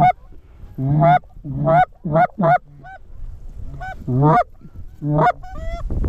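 Canada geese honking: about a dozen loud two-note honks, each breaking from low to high, in uneven groups from a flock close by.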